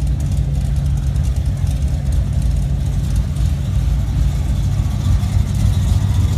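Classic car engines running low and steady at idle as cars creep past in a car show cruise.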